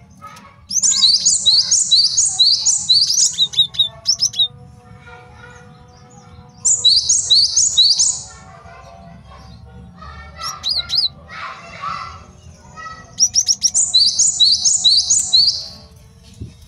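Male cinereous tit (gelatik batu) singing: three loud bouts of fast, repeated high sweeping notes, each lasting one to four seconds, with softer sounds in the gaps between.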